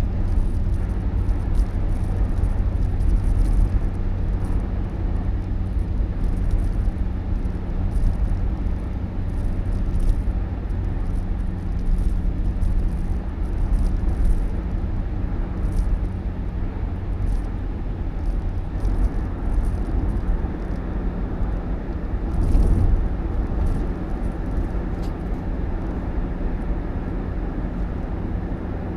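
Motor vehicle running: a steady low rumble with a faint steady hum and scattered light ticks.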